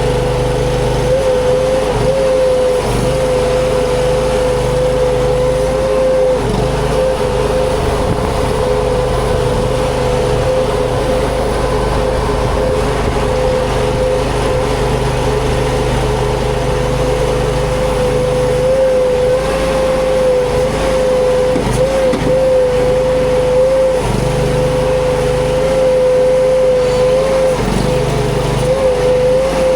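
Mini skid steer's engine running steadily at high revs, its pitch dipping slightly now and then as the machine works.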